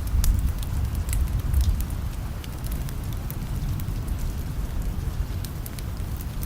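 Steady rain mixed with a crackling wood fire: sharp pops and crackles over an even hiss of rain, with a low rumble underneath that is strongest in the first couple of seconds.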